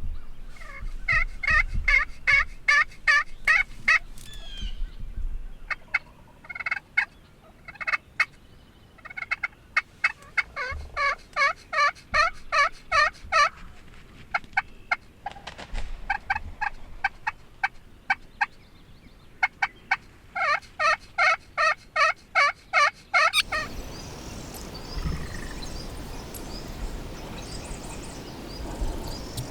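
Turkey yelping: several runs of evenly spaced, pitched yelps, about four or five a second, with short pauses between runs. Near the end the yelps stop abruptly and a steady outdoor hiss remains.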